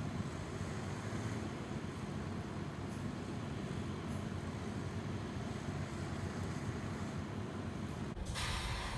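Car engine idling, a steady low rumble heard inside the stationary car's cabin. Near the end a brief hiss cuts in for under a second.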